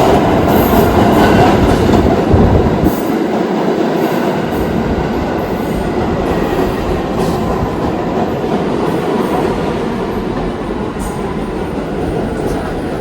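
New York City subway train running with a loud rumble and wheel clatter on the rails. It is loudest for the first few seconds, then slowly gets quieter.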